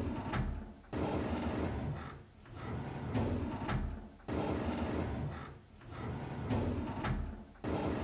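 A drawer sliding on its runners again and again, about five slides, each a scraping run of a second or so, several of them starting with a sudden jolt.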